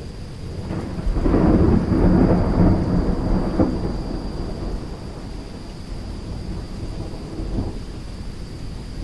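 Thunderstorm: a loud roll of thunder swells about a second in, crackles and rumbles, then fades over a few seconds, over steady rain. A weaker rumble follows near the end.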